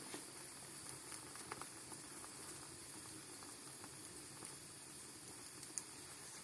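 Wood fire crackling in a fireplace: a soft steady hiss with scattered small pops and snaps, the loudest pop near the end.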